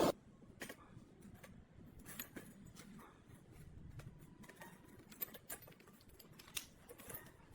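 Scattered light clicks and taps at an irregular pace, like small parts and hand tools being handled during bench work.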